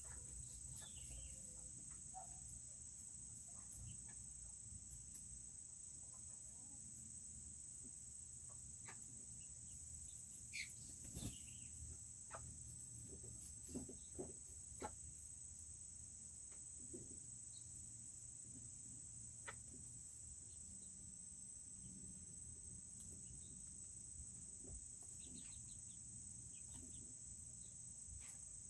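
Steady high-pitched chirring of crickets, faint throughout. Over it come a few soft peeps from Serama chickens and a cluster of short sharp ticks about halfway through.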